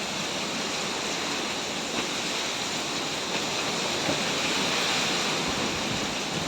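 Hurricane-force wind driving heavy rain, a steady rushing hiss with a few faint ticks and a brief low rumble of wind on the microphone near the end.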